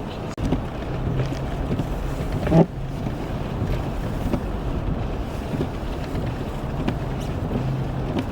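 Gusty blizzard wind buffeting the microphone over a steady low rumble, with a short pitched sound about two and a half seconds in.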